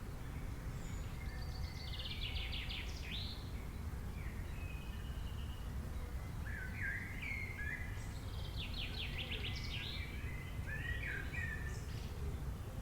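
Songbirds singing: two bursts of quick trills and chirps, one about two seconds in and a longer one from about six seconds to near the end, over a steady low background rumble.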